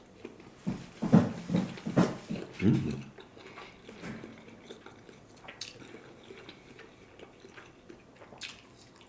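Close-up eating sounds of a mouthful of sushi being bitten and chewed, with a few heavier chews or mouth noises in the first few seconds, then softer, smaller chewing and clicks.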